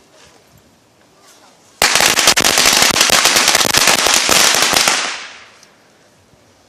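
A string of firecrackers going off in rapid, dense crackling pops. It starts suddenly about two seconds in, runs for about three seconds, then dies away.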